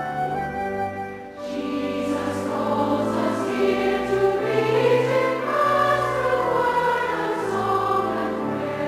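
A choir singing a hymn with instrumental accompaniment, the voices coming in about a second and a half in after a short instrumental phrase.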